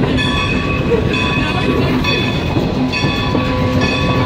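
Strasburg Rail Road passenger train rolling along the track, heard from aboard: a steady rumble with a high, multi-toned squeal that repeats about once a second.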